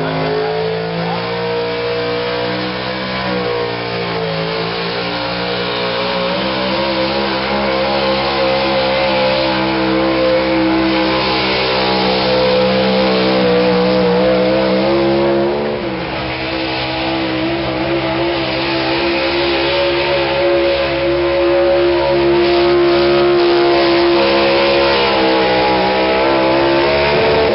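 Pulling truck's engine run hard on a pull, its pitch climbing slowly. It dips briefly about four seconds in and again just past halfway, then holds high and steady.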